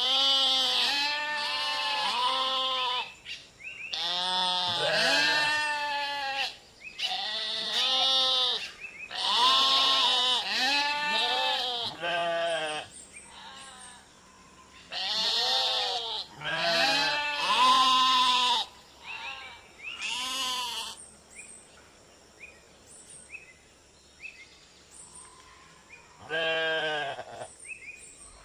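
A flock of sheep bleating, with many overlapping calls in quick succession. The calls thin out about two-thirds of the way through, and one last bleat comes near the end.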